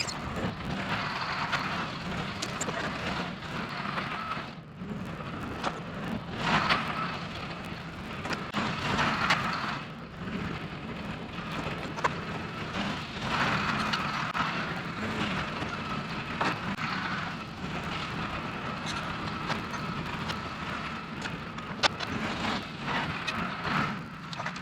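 A heavy-equipment engine running steadily during log loading, with a few sharp knocks.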